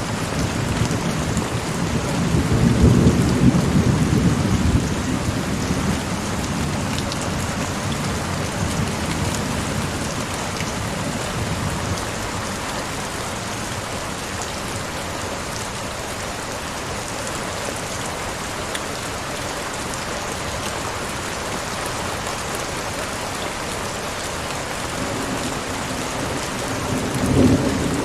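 Heavy rain falling steadily, a continuous hiss of drops. A low rumble swells up about three seconds in and fades by five, and a shorter one comes near the end.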